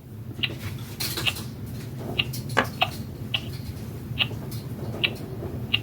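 Baby Alive doll giving a series of short, high squeaks, about eight of them at uneven intervals of under a second.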